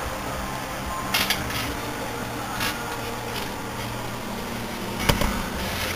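Microwave oven running with a steady mains hum, with a few sharp crackles from the smoking circuit-board piece cooking inside.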